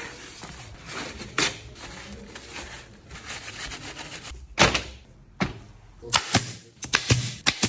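A series of sharp knocks and clacks: one about a second and a half in, a couple around the middle, and a quick run of them near the end.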